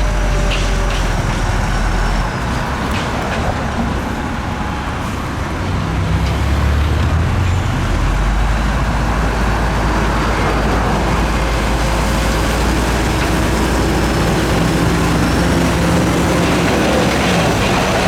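Heavy diesel engine of earthmoving machinery running steadily, growing louder and changing note around six to eight seconds in.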